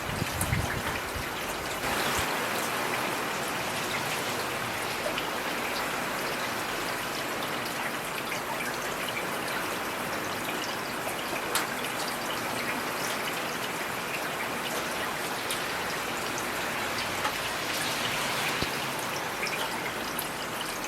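Heavy rain falling steadily, a dense hiss of drops with scattered individual drops ticking on a surface. There is a short low rumble right at the start.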